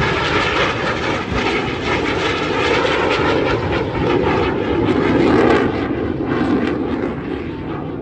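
Jet aircraft flying past during the air display, a loud engine roar that swells to a peak about five seconds in and then fades.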